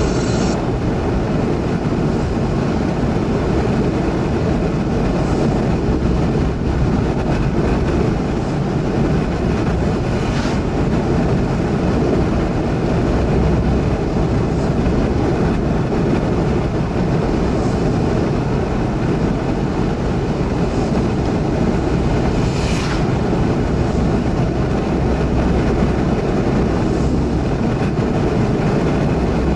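Steady, loud rumbling roar heard from inside a car driving fast through a severe storm, with road and wind noise blended together.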